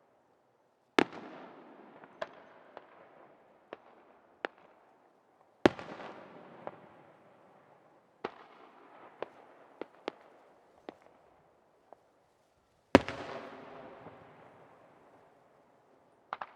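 Aerial fireworks shells bursting. There are three big bangs, about a second in, near six seconds and about thirteen seconds, each echoing away over several seconds, with a dozen or so smaller, sharper cracks between them.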